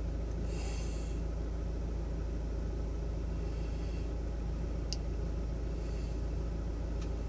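Car engine running, heard from inside the cabin as a steady low rumble. Two faint clicks come about five and seven seconds in.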